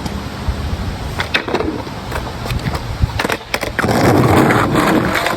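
Skateboard rolling on street asphalt, with several sharp clacks of the board as ollies are popped and landed; the rolling grows louder from about two-thirds of the way in.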